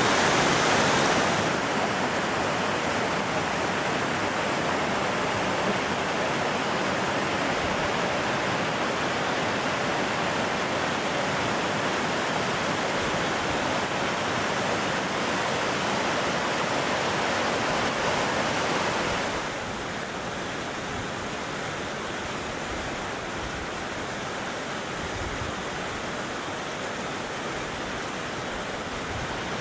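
Steady rushing roar of the Orkhon Waterfall's falling water. It drops in loudness twice, about two seconds in and again about two-thirds of the way through, losing some of its hiss each time.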